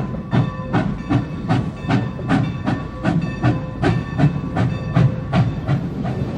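Steam locomotive working under way, its exhaust chuffing in an even beat of about two and a half a second with steam hiss over the rumble of the engine, heard from inside the cab.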